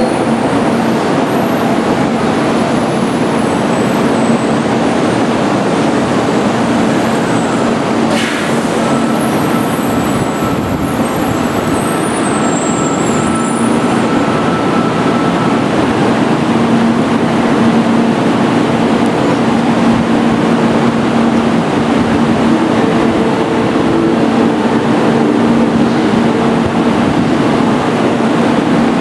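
800 Series Shinkansen train rolling slowly into the platform and coming to a stop, then standing with a steady hum. A faint thin whine sounds for a few seconds partway through.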